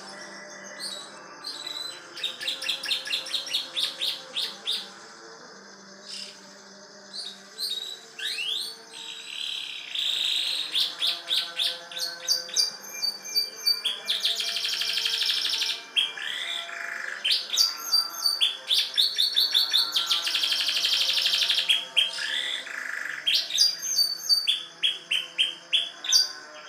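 Domestic canary singing continuously, with rapid trills, fast series of repeated high chips and long buzzy rolls. Its song carries phrases like those of the bar-winged prinia (ciblek).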